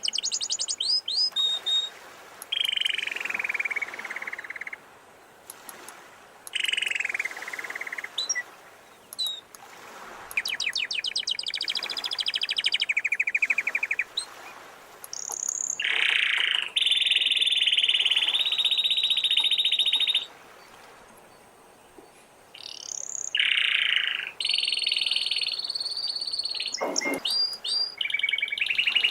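Canary singing in phrases of fast trills and rolling notes, some falling in pitch, with short pauses between them and longer held rolls in the second half.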